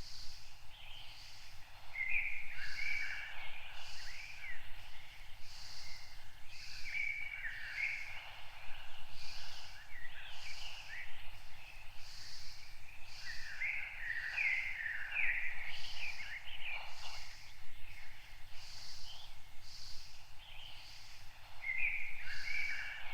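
Songbirds singing in short warbling bouts every several seconds, over a high note that pulses steadily about every second and a half.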